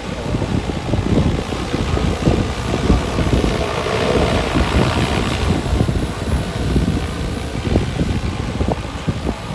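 Large agricultural spray drone (KM45) flying, its rotors giving a steady propeller drone that swells about halfway through, with strong wind buffeting the microphone.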